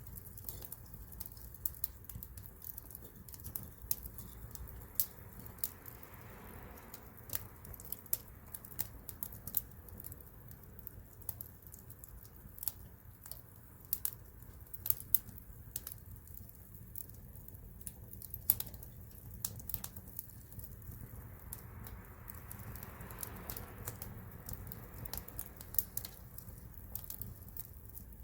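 Wood campfire crackling, with sharp, irregular pops and snaps over a low steady rumble; a soft hiss swells and fades twice.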